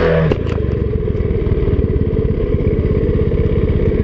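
Dirt bike engine running steadily at low, even revs, with a few light clicks about half a second in.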